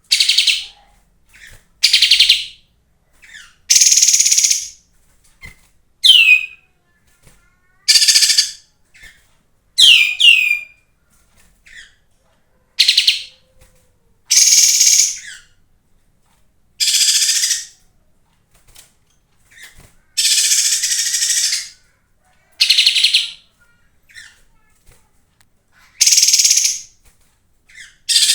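Pied triller (kapas tembak) singing: loud, high trilling phrases repeated about every two seconds, some ending in quick falling sweeps. A lure-song recording, played to set caged birds singing.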